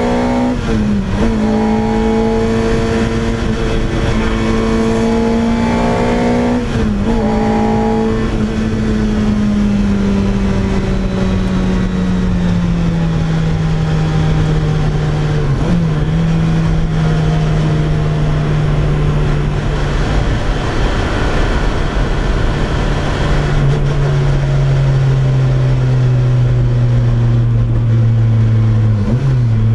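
2004 Lotus Exige Cup's naturally aspirated four-cylinder engine and loud exhaust pulling steadily on the move. The engine note slowly falls throughout, with four brief dips in it.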